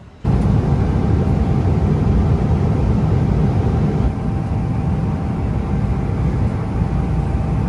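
Loud, steady vehicle rumble with a faint steady whine above it, cutting in abruptly a moment after the start.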